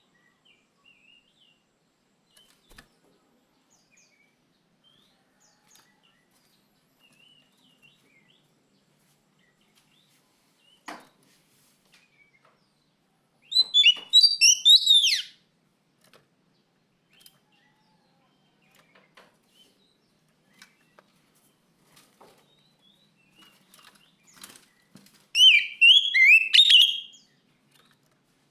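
Oriental magpie-robin (kacer) singing: two loud, rapid bursts of varied, high whistled notes, each lasting about two seconds, one about halfway through and one near the end, with faint soft twittering in between.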